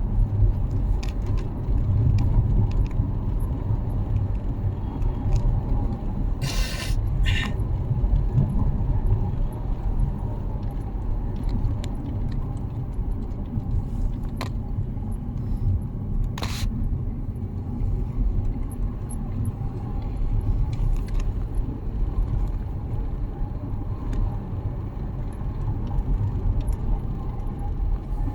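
Car driving: a steady low rumble of road and engine noise. A few brief clicks or knocks cut through it, two close together about a quarter of the way in and one a little past halfway.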